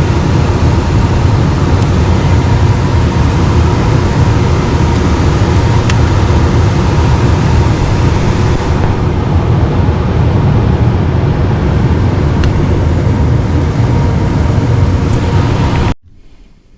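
HVAC equipment running with a loud, steady whooshing hum and a faint steady tone, cut off abruptly near the end.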